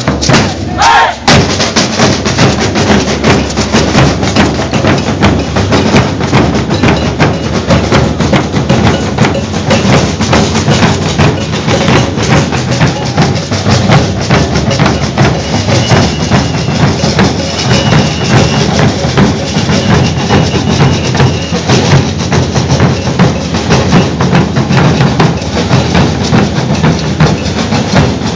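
Maracatu de baque virado percussion group playing a loud, driving rhythm without a break: deep alfaia drums, snares, shakers and a struck metal bell.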